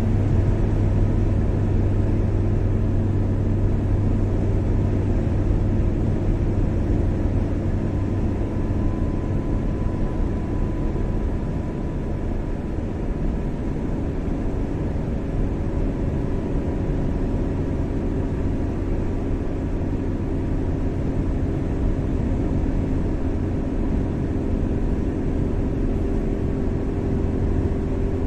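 A car driving steadily along a road: continuous engine and tyre rumble with a low hum that shifts slightly in pitch.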